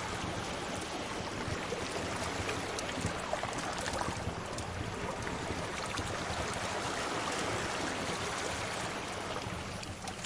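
Sea waves washing ashore, one swell building through the middle and ebbing near the end, with the occasional small crackle of a wood fire.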